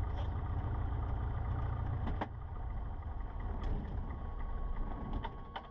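Cessna 150's four-cylinder Continental O-200 engine idling at about 800 rpm, then running down and dying away from about two seconds in as it is shut down, with a few sharp clicks.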